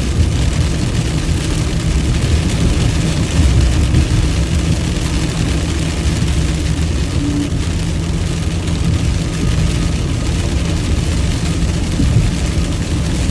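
Rainstorm: a steady, loud low rumble of heavy rain and wind with a fainter hiss above it.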